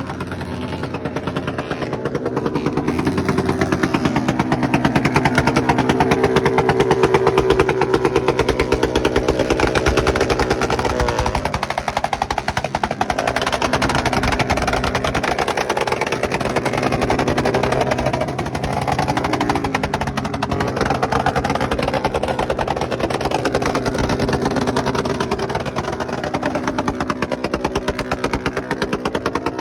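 Motorcycle engine running under way, its pitch climbing over the first several seconds, dropping about eleven seconds in, then holding fairly steady with small rises and falls.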